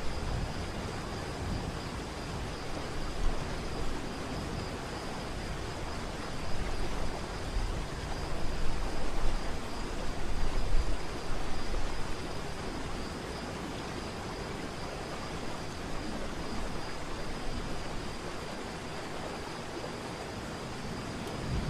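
Waterfall: a steady rush of falling water, with uneven low rumbles that swell louder in the middle.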